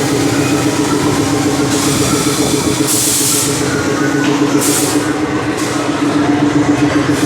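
Airliner cabin noise: a steady engine drone with a constant hum and a broad hiss of rushing air, with two brief surges of hiss about three and five seconds in.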